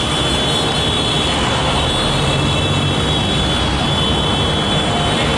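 Motorcycle engines running together in a steady, loud drone, with no single bike standing out.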